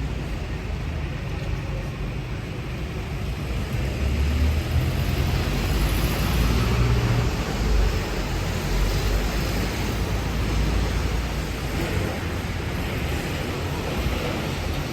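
Busy city-street traffic in the rain: engine rumble of passing vehicles that swells and fades, louder about four to eight seconds in, over a steady hiss of wet road.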